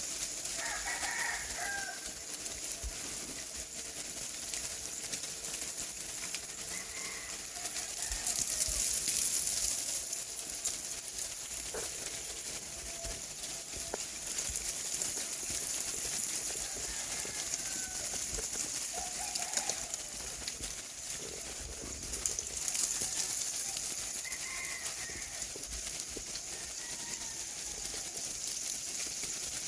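Ice falling from ice-coated trees after an ice storm: a steady fine crackling patter of ice bits, swelling louder twice. A few short bird calls break in now and then.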